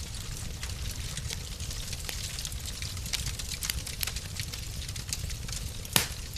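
Wood fire crackling in a fireplace: a steady scatter of small crackles over a low rumble, with one louder pop about six seconds in.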